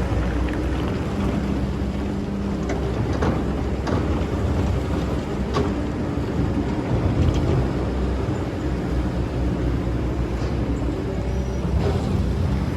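Excavator engine running steadily with a low drone, with scattered short clicks and knocks over it.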